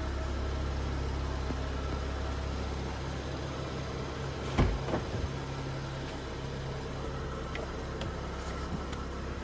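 Steady low hum of a 2017 BMW 640i Gran Coupe's turbocharged straight-six running, with one sharp thump about four and a half seconds in.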